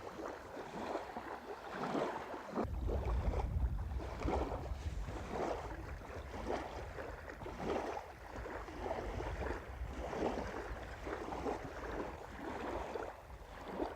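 Wind blowing over the microphone, with a low rumble that sets in suddenly about three seconds in, over the steady rustle of small waves lapping.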